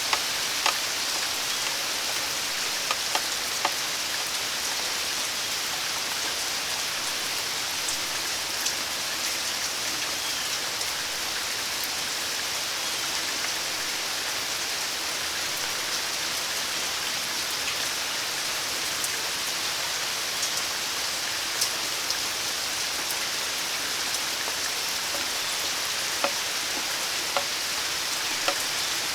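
Steady rain falling, an even hiss, with now and then a single louder drop striking close by.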